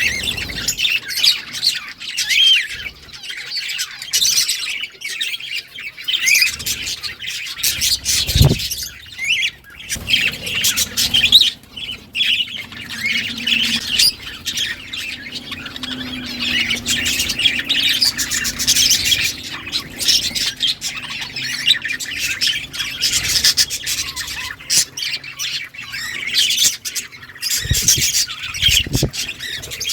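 A group of budgerigars chattering, warbling and chirping continuously, with sharper squawks mixed in. A few dull low thumps come through, one at about 8 seconds and two near the end.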